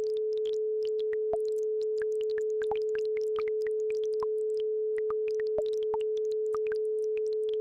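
A steady 432 Hz pure tone held at an even level, under scattered quick plinks and bubbles of babbling brook water.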